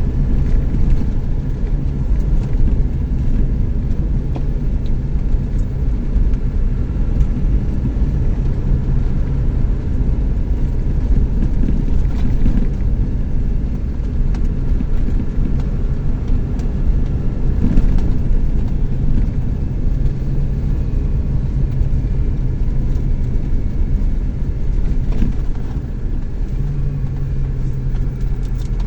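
Chevrolet S10 pickup driving on the road: a steady low rumble of engine and road noise, with a faint hum whose pitch shifts slightly near the end.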